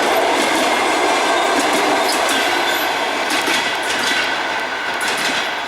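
Passenger train cars rolling past at speed: a steady rush of wheels on rail with sharp clicks as wheels cross rail joints, the sound slowly beginning to fade in the second half.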